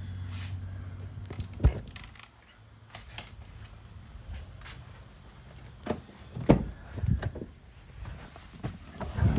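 A low steady hum stops about two seconds in, followed by a series of thuds and knocks, the loudest about six and a half seconds in, fitting a car door and someone moving in and around the car.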